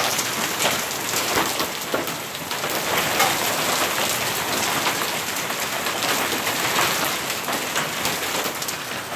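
Quarter-size hail coming down hard: a dense, steady clatter of countless stones striking the ground and surfaces, with sharper individual hits standing out.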